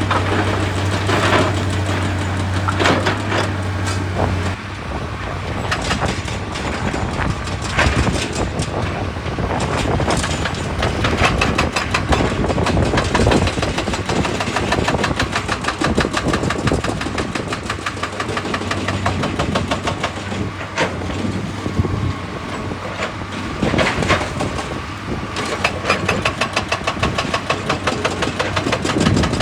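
Excavator's diesel engine working, with a steady low hum in the first few seconds and then a dense, rapid clatter of knocks and impacts, in faster runs of regular strikes at times.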